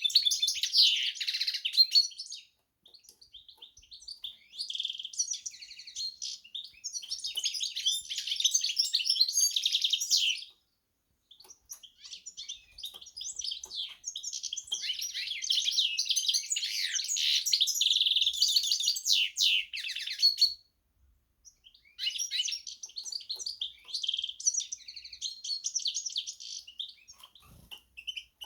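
Carduelis × canary hybrid songbird singing in long runs of fast, varied song, broken by short pauses of a second or two.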